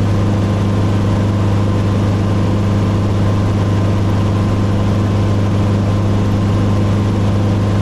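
Helicopter running, a steady, unchanging drone with a strong deep hum.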